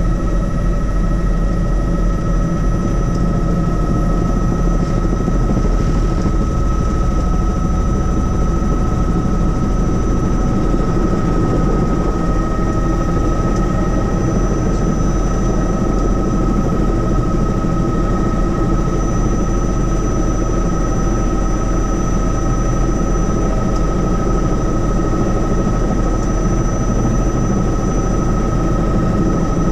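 Helicopter in flight: steady engine and rotor noise with a constant high whine over it.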